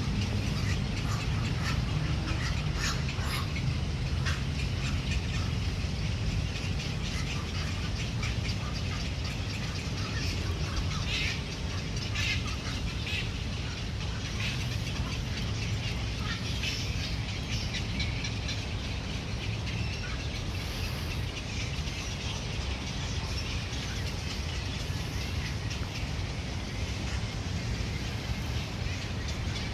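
Birds calling and chirping over a steady low rumble.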